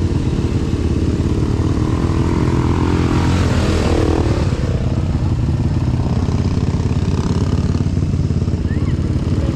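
Off-road pickup truck engine running under load as it climbs a slope, swelling briefly about three to four seconds in.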